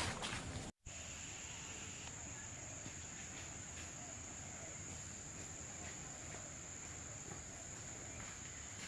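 Tropical rainforest insect chorus: a steady, unbroken high-pitched drone. Just under a second in there is a moment of louder low noise that cuts off abruptly in a brief dropout, and then the insect drone continues evenly.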